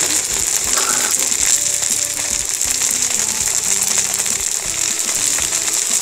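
Meat and dumplings frying on a hot round camping griddle pan: a steady sizzle full of fine crackling.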